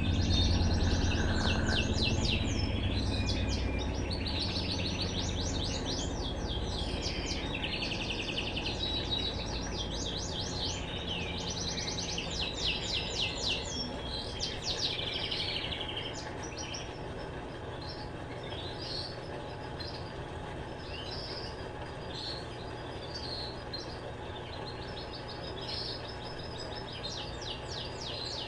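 Small birds chirping in quick repeated trills, busiest in the first half. Underneath, the low hum of an Electrolux LTE12 washing machine fades away over the first few seconds as the machine goes into a pause in its cycle.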